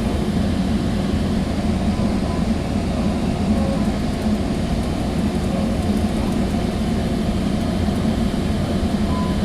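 Steady rumble of a Sound Transit Sounder commuter train coach under way, heard from inside the car.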